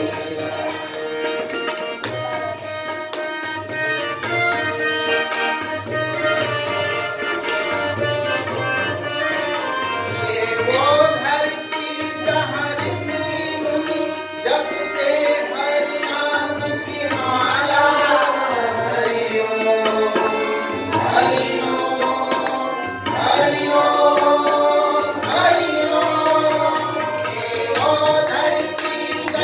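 Indian music: tabla playing a steady rhythm under a gliding melody line.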